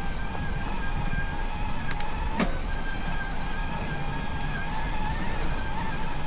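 Steady whine of a Specialized Levo SL e-bike's mid-drive motor under pedal assist, over a low rumble of wind on the handlebar-mounted microphones, with one sharp click about two and a half seconds in.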